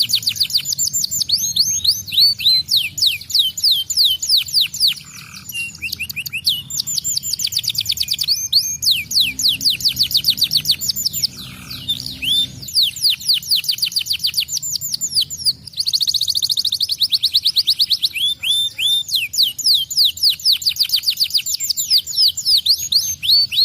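Domestic canary singing a fast, almost unbroken song of rapid trills, each a quick run of repeated downward-sweeping notes. About two-thirds of the way through, the trills tighten into a dense buzzing roll.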